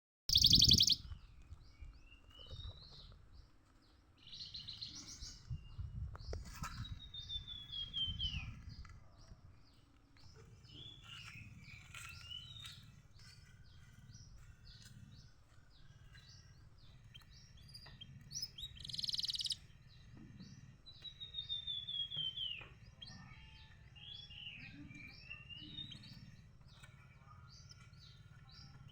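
Canary singing a long, continuous song of quick chirps and rolling trills, with falling trilled runs and two loud buzzy bursts, the loudest right at the start and another about two-thirds through. A faint low rumble runs underneath.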